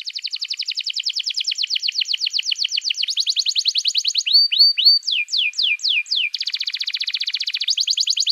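Songbird singing a fast trill of descending whistled notes, about ten a second. Around the middle it breaks into three quick rising notes, then four slower falling whistles and a denser buzzy trill, before the fast descending trill resumes.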